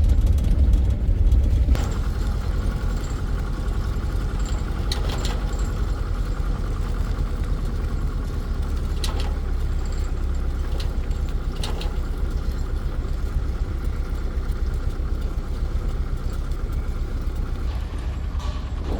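Engine running steadily with a low rumble, a little louder for the first two seconds, with a few sharp clicks over it.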